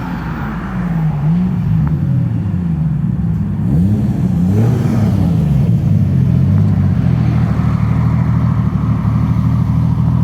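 Car engine revving, its pitch rising and falling several times in the first few seconds, then holding a steady note as the car drives off.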